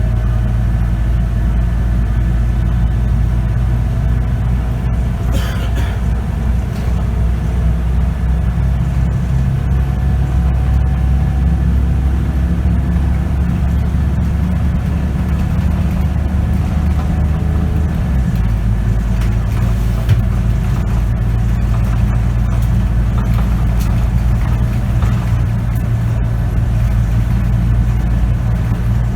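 Scania K94UB city bus engine running under way, heard from on board. Its low engine note changes abruptly about 18 seconds in, as the ZF automatic gearbox changes gear.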